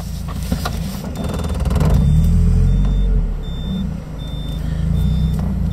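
Mazda MX-5 Mk1's four-cylinder engine running under load with the roof down, mixed with wind and road noise in the open cabin; the sound swells, dips about four seconds in, then builds again. A short high beep repeats about every three-quarters of a second from about a second in.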